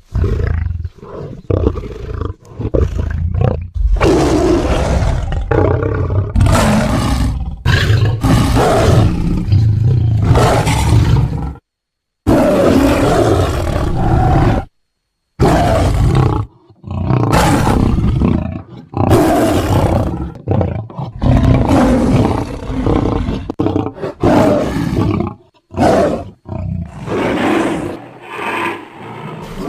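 Sound-designed sabre-toothed lion creature calls, made from mixed lion and tiger recordings: a string of loud, deep roars and growls, one after another, each lasting a second or a few. Two short, dead-silent gaps fall about twelve and fifteen seconds in.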